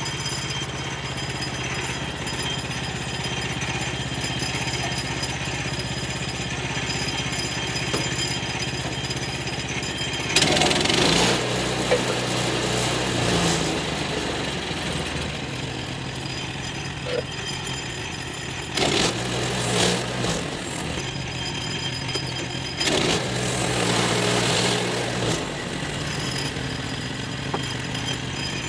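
Sawmill engine running steadily. Three times the saw cuts into wood for two or three seconds at a stretch, each cut louder and noisier than the running.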